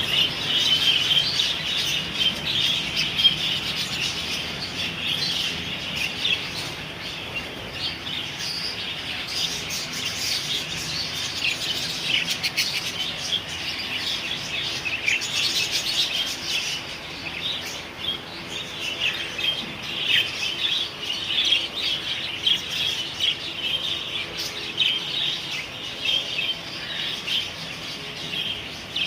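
A group of small parrots, budgerigars and lovebirds, chattering and chirping continuously, with many overlapping calls.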